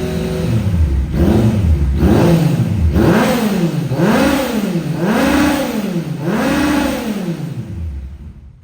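2016 Yamaha MT-09's three-cylinder engine through a Termignoni full exhaust system, blipped about five times from idle, each rev rising and falling in pitch. The sound fades away near the end.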